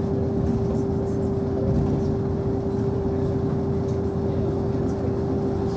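Inside a DB ICE train carriage moving slowly onto the ferry: a steady low running rumble with a constant steady hum, and a few faint clicks.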